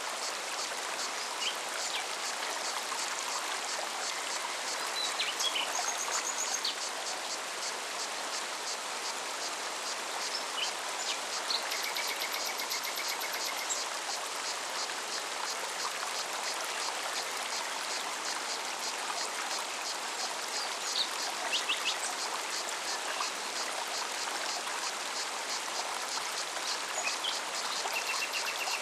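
Mountain forest stream running steadily over rocks. A cicada sings through it as a fast, even pulsing, and birds give short chirps and trills a few times.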